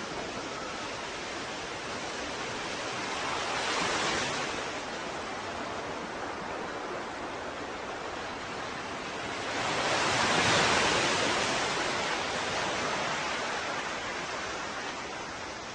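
Ocean waves washing ashore: a steady surf hiss with two waves breaking, a smaller one about four seconds in and a louder one about ten seconds in that slowly fades away.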